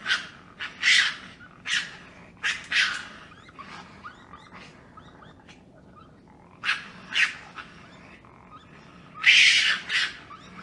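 Raccoon calling in a series of short, noisy chittering cries: several in the first three seconds, two more around seven seconds, and the loudest near the end.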